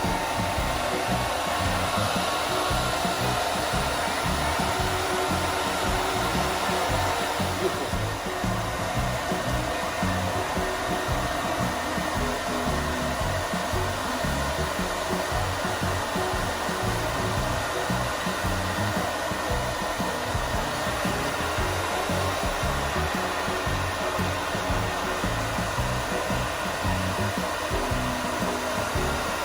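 Hair dryer running steadily, blowing on a Great Pyrenees puppy's thick coat.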